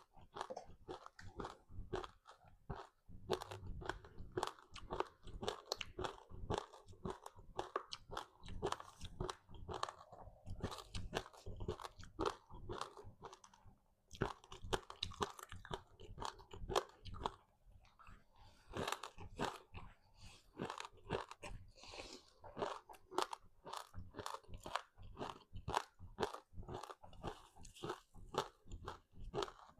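Close-miked crunching and chewing of a crispy seaweed-wrapped rice snack: many crisp crunches in quick succession, with a couple of short pauses midway.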